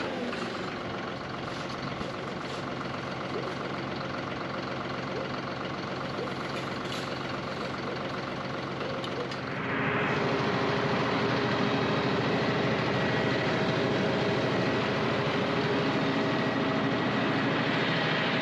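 John Deere 5055E tractor's three-cylinder diesel engine running steadily as the tractor is driven, loud close up; it gets louder about halfway through.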